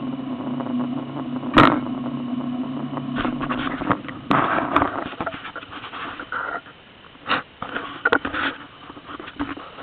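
Off-road 4x4's engine running at low revs close by, its steady hum fading out after about three seconds. A sharp knock comes about a second and a half in, followed by scattered scrapes and rustles.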